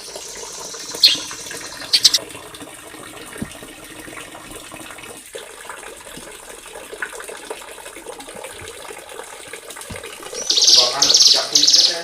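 Small songbird singing: a quick note and a short buzzy trill early on, then from about ten seconds in a run of loud, high, buzzy trilled phrases repeated about twice a second, over a steady background hiss.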